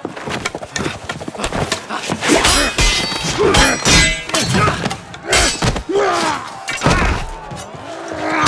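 Sound-designed sword-fight effects: a rapid run of heavy thuds and weapon strikes, some with a metallic ring, mixed with short grunts.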